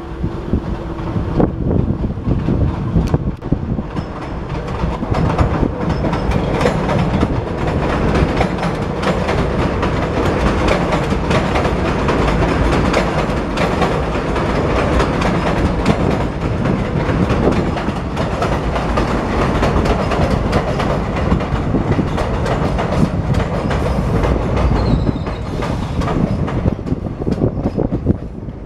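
New York City subway train running along the rails with a steady loud rumble and clattering wheels over the track, building up over the first few seconds.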